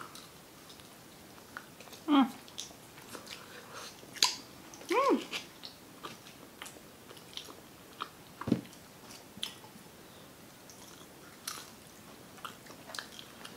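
Close-miked eating sounds: biting into and chewing chicken wings and pizza, with scattered small wet mouth clicks. A short hum from a voice comes about 2 s and again about 5 s in.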